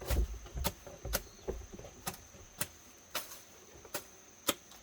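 A run of sharp knocks or taps, about eight of them at uneven intervals of roughly half a second, over a faint steady high-pitched whine.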